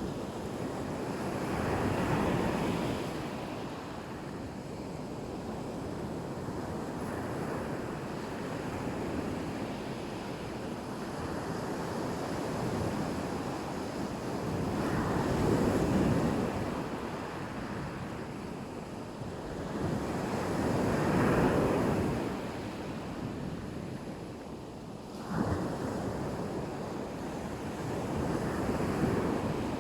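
Black Sea waves breaking on the shore: a steady wash of surf that swells into louder breakers several times, one of them hitting suddenly near the end.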